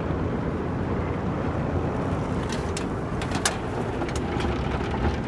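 MacNeil car wash tunnel heard from inside the car: a cloth brush and water working over the car body as a steady low noise. A few sharp slaps and ticks come between about two and a half and three and a half seconds in.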